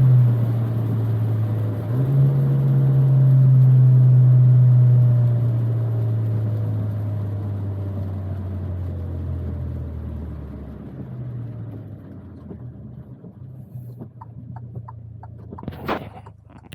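Alfa Romeo Giulia driving, a steady low engine and road drone that swells briefly, then slowly fades away as the car slows. Scattered light clicks follow, with a sharper knock near the end.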